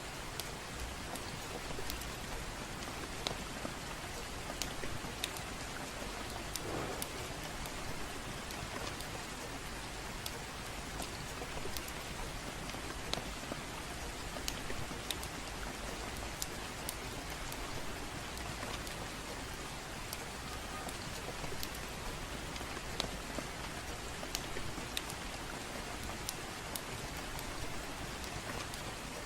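Steady gentle rain, an even hiss, with scattered sharp crackles and pops from a wood fire in a fireplace at irregular moments.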